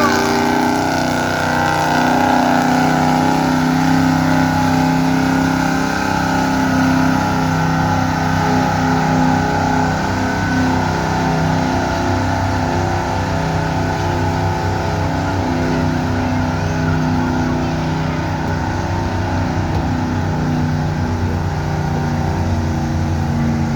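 Gas-engined pickup truck pulling a weight-transfer sled at full throttle. The engine is held at high revs in one long steady pull, its pitch wavering only slightly.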